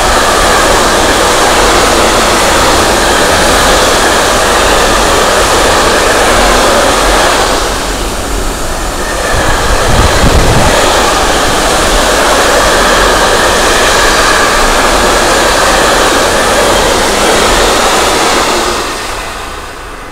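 Container wagons of a freight train rolling past: a loud, steady rush and rumble of steel wheels on the rails. It dips briefly about eight seconds in, surges for a moment around ten seconds, and fades near the end as the last wagon passes.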